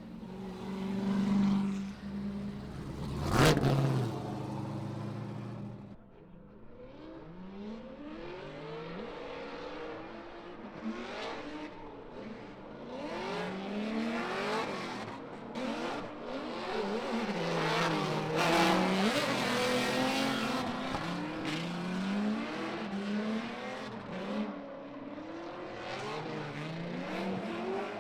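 Drift car engines revving hard, their pitch rising and falling again and again as several cars work the throttle through slides over a haze of tyre and exhaust noise. A loud sharp burst comes a few seconds in.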